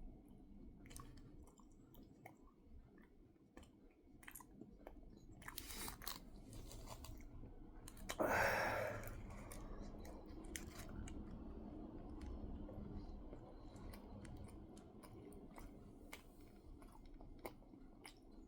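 A person chewing mouthfuls of a giant Reese's peanut butter cup heart, with scattered small mouth clicks and bites. One louder, longer noise about eight seconds in.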